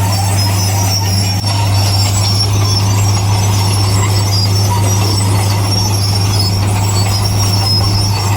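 Bulldozer working: its diesel engine runs at a steady pitch with a strong low hum, and high squeals from the steel tracks come and go.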